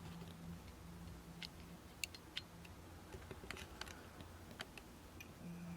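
Faint, irregular small clicks and ticks of a handheld camera being handled, over a low steady hum.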